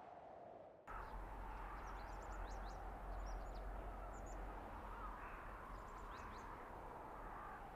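Winter-forest blizzard ambience: steady wind noise with a low rumble, which jumps louder about a second in, and short high bird chirps twice.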